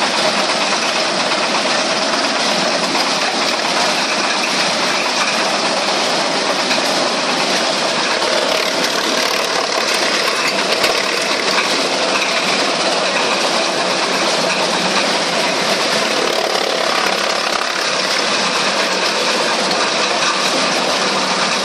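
Wood chipper running with a steady, dense mechanical noise that holds even throughout.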